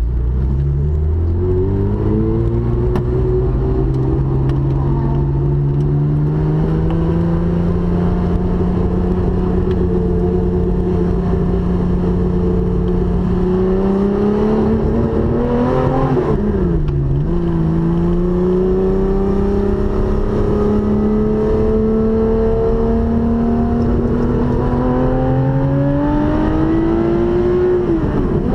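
Car engine heard from inside the cabin, pulling away and accelerating on a track. The engine note climbs from low, rises slowly over long stretches, and drops sharply in pitch about halfway through and again near the end before climbing once more.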